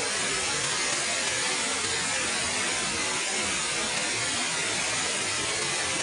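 Waterfall: a steady rush of falling water, even and unbroken, with most of its weight in the hiss rather than the low end.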